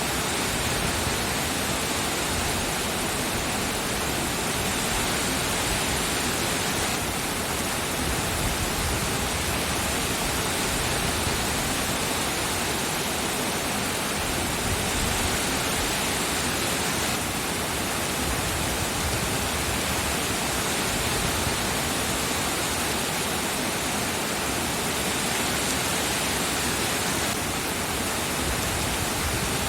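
Steady, dense rainfall: an even hiss of rain with no separate drops, thunder or other events standing out.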